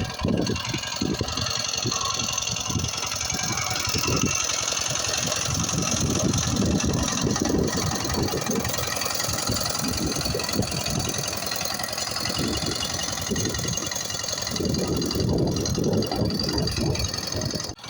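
Walking tractor engine running steadily with a rapid low knocking beat.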